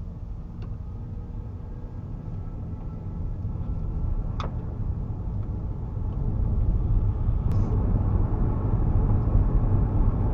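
Car engine and tyre rumble heard from inside the cabin, growing steadily louder as the car gathers speed, with a few faint clicks.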